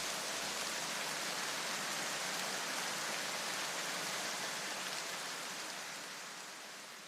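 Rushing water of a large waterfall, a steady dense hiss that fades out over the last couple of seconds.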